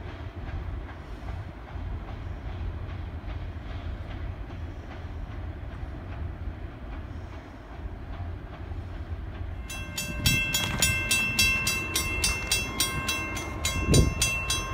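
Low, steady rumble of a distant freight train. About ten seconds in, a railroad grade-crossing bell takes over, ringing in rapid even strokes.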